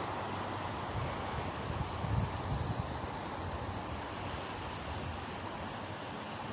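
Steady outdoor background noise with wind buffeting the microphone, gusting in low rumbles about one to three seconds in.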